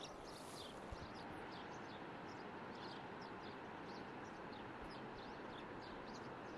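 Small birds chirping, many short high chirps several times a second, over a steady background hiss.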